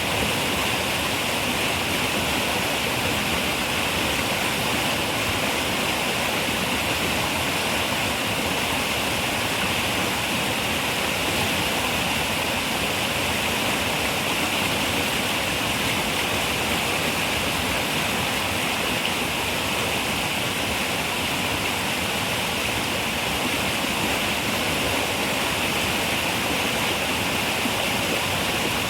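River water running and rushing steadily, a constant even noise with a hiss that is strongest in the upper middle range.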